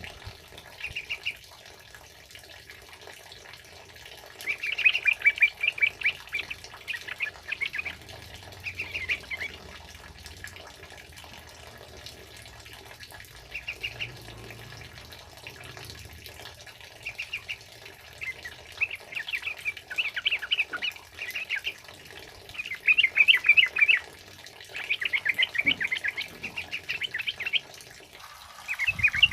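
Yellow-vented bulbul (trucukan) singing in repeated bursts of rapid, chattering notes, with short pauses between phrases. A steady hiss of heavy rain runs underneath.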